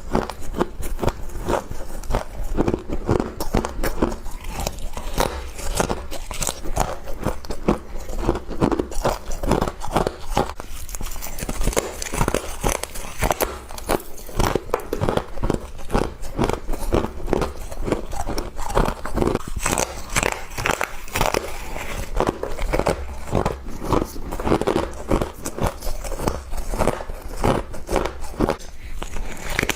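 Frost being bitten and chewed close to the microphone: a dense, continuous run of crunching and crackling.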